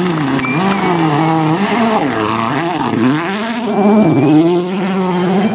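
A 2014 World Rally Car's 1.6-litre turbocharged four-cylinder engine revving hard at speed, its pitch falling and climbing again several times.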